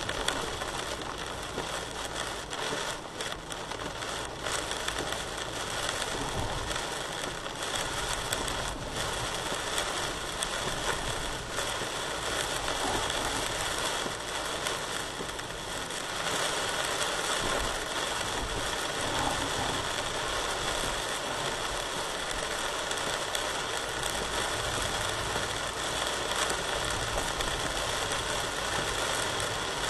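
Heavy rain pouring down in strong wind: a dense, steady hiss of pattering drops with a low rumble beneath, getting a little louder about halfway through.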